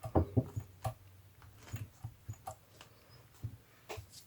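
Paper and card being handled and placed: a quick cluster of light taps and clicks in the first second, then scattered softer taps.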